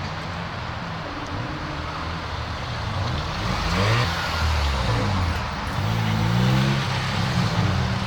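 Several car engines running at low revs and pulling away, overlapping, their pitches rising and falling. Louder from about four seconds in.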